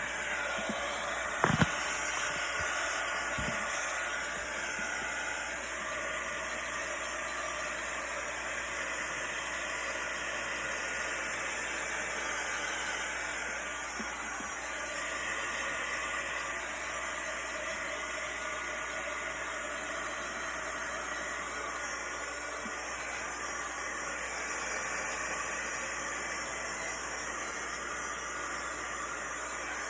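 Heat gun blowing with a steady hiss, with a couple of brief knocks about one and a half and three and a half seconds in.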